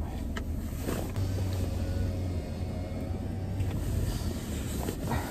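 Car engine idling, a steady low rumble heard from inside the cabin, with a low hum joining in for about two seconds in the middle.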